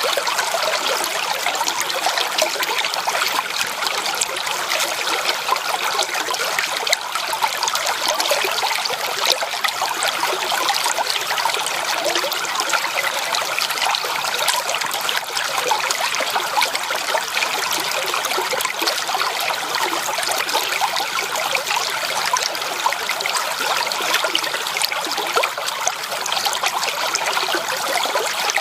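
Running water of a stream, flowing and splashing in a steady, unbroken rush.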